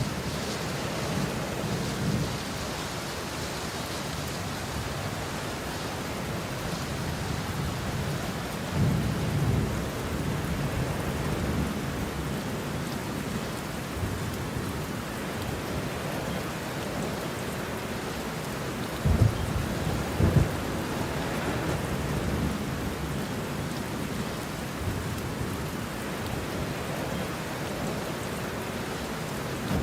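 Steady rain with thunder: low rolling rumbles come and go, with two sharp close cracks a little past halfway.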